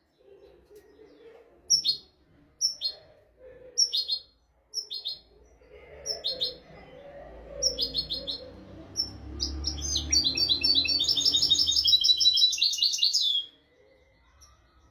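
European goldfinch singing. It gives short chirps about once a second, then a fast twittering song phrase several seconds long that breaks off near the end.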